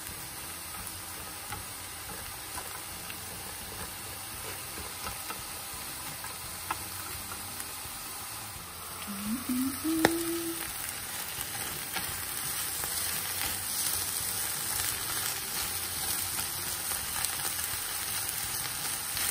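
Salmon fillets and mushrooms frying in orange sauce in a pan over high heat: a steady sizzle with light crackling as the liquid cooks down. About halfway through there is a brief rising tone and a sharp click, and the sizzle grows louder after it.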